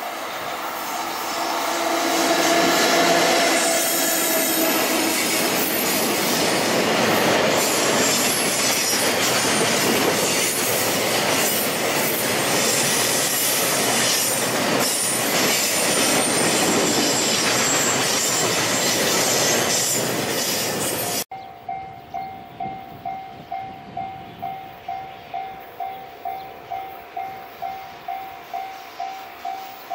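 A Japanese train running past at speed: a loud rumble and wheel noise with rail clatter. About two-thirds of the way in it cuts off suddenly. What follows is a level-crossing bell ringing its repeated ding, about two and a half strokes a second.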